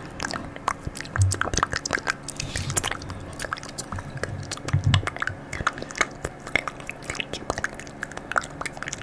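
Close-miked ASMR trigger sounds: rapid, irregular crisp clicks and crackles with a few soft low thumps.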